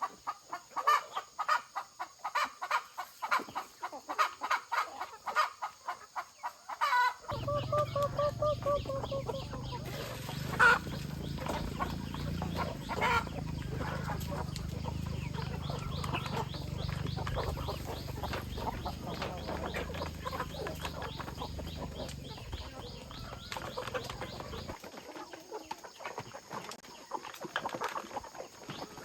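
Chickens clucking in quick, repeated short calls. About seven seconds in, a steady low rumble starts abruptly under them and stops just as abruptly a few seconds before the end.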